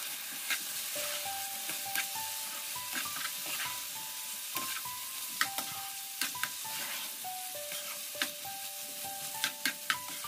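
Chicken pieces sizzling in butter in a nonstick pan while stirred with a metal slotted spoon, the spoon clicking and scraping against the pan many times at irregular moments. A quiet melody of single notes plays underneath.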